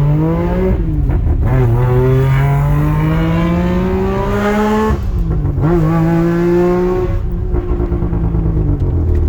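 Mazda RX-8's twin-rotor Renesis rotary engine accelerating through the gears. The revs climb, drop at a shift about a second in, then climb steadily for several seconds. They drop again at a second shift around the middle and then hold steady at a cruise.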